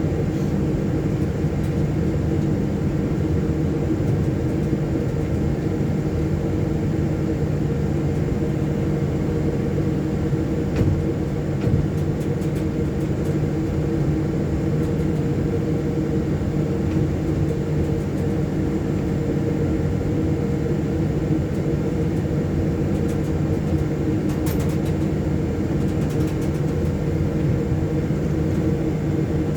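Steady drone inside the cockpit of a Boeing 737-800 taxiing, its CFM56 turbofan engines at low taxi power, with a few faint clicks around a third of the way in and again later.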